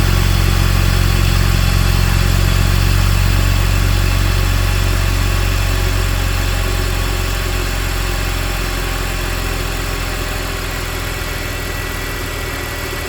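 2002 BMW 325xi's 2.5-litre straight-six idling shortly after a cold start, with the cold-start secondary air pump running. The low hum fades gradually through the second half as the air pump shuts off.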